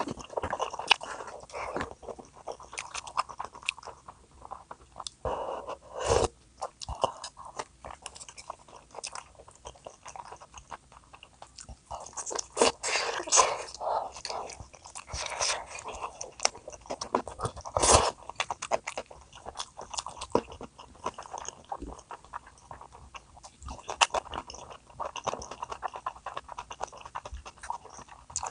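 A person eating close to the microphone: irregular bites and chewing with crisp, crunchy clicks throughout, the sharpest about 18 seconds in.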